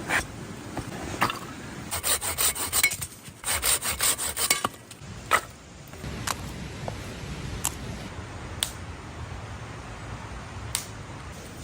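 Knife blade scraping a fatwood stick to shave off tinder: a run of quick strokes about four a second, then a few single scrapes a second or so apart.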